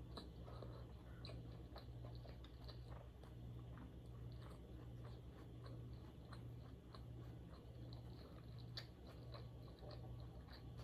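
Quiet, close-miked chewing of food, with scattered small clicks of the mouth, over a low background hum.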